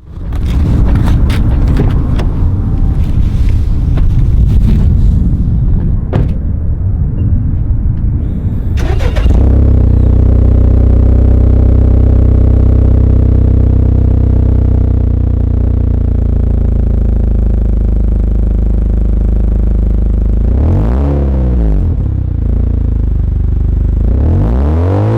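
Honda Accord 2.0T's turbocharged four-cylinder exhaust through a Rev9 stainless cat-back and PRL front pipe. For the first nine seconds it is mixed with clicks and knocks, then it settles into a steady, deep idle. Near the end the engine is revved twice, the pitch rising and falling each time.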